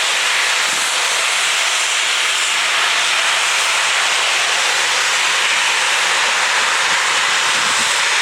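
Steam locomotive letting off steam: a steady, loud hiss with no rhythm of exhaust beats.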